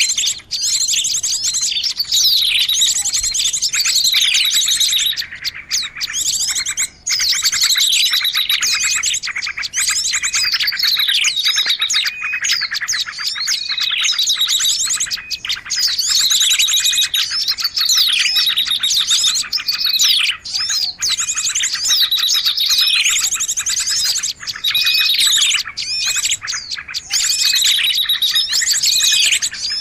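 Small-bird lure recording: many songbirds' calls layered into a dense, continuous high-pitched chatter of rapid trills and quick falling chirps.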